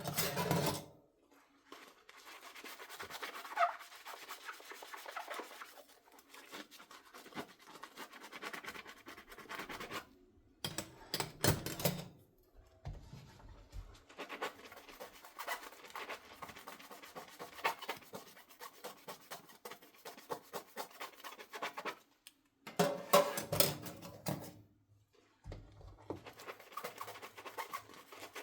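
Dishes being hand-washed: a sponge scrubbing dishes in stretches of rapid rubbing and scraping with short pauses. Twice there is a louder, fuller burst of noise.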